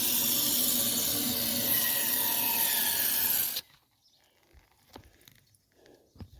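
Aerosol can of anti-corrosive cavity coating spraying through an extension tube: a loud, steady hiss that cuts off suddenly a little past halfway through, followed by a few faint clicks.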